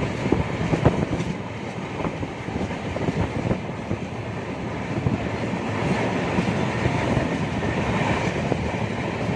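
Passenger train running at speed, heard on board: a steady rumble with the wheels clacking irregularly over rail joints.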